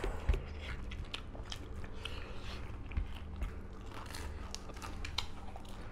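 Chewing with crisp crunches and small crackles, scattered irregularly, as a fried papad is bitten and eaten.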